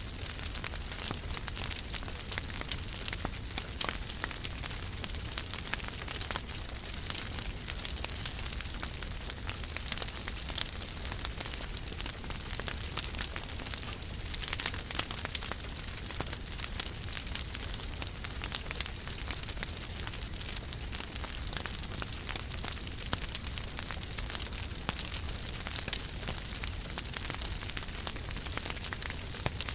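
Wood fire burning in a fireplace, crackling steadily with frequent small sharp pops over a soft low rumble.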